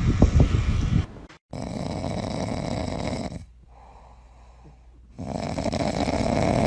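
A pet snoring in slow, loud breaths, with a quieter pause between them. A few loud low thumps come before, in the first second.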